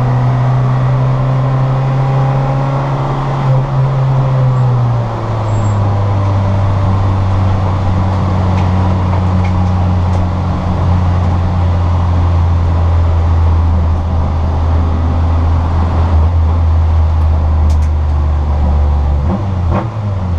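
Citroën Saxo VTR's four-cylinder petrol engine running at a steady engine speed, heard from inside the car. Its pitch steps down about five seconds in, holds steady, drops again near the end, then the sound cuts off abruptly.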